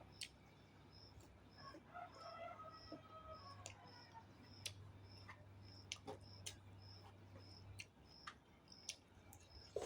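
Faint mouth and chewing clicks of a person eating, scattered sharp clicks through a low steady hum. A faint high pip repeats about every half second in the background.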